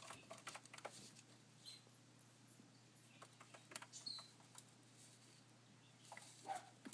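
Faint, scattered clicks and taps from a pet cockatiel moving about and pecking at a hard surface, irregular and sparse, with a couple of brief soft high sounds.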